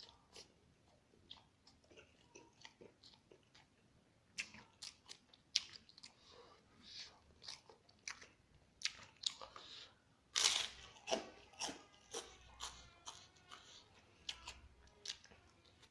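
Close-up chewing and crunching of crispy fried battered egg (telur geprek): a few soft mouth clicks at first, then from about four seconds in, loud repeated crunching bites, with the loudest crunch near the middle.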